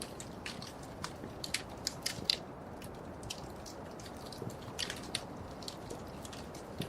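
Wood fire crackling: irregular sharp pops and snaps over the steady low rush of the flames, with a small cluster of louder pops about two seconds in.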